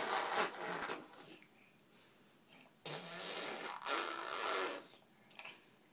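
Baby blowing raspberries: buzzy, sputtering lip-trill bursts. A short one comes at the start, then a longer stretch of about two seconds from about three seconds in.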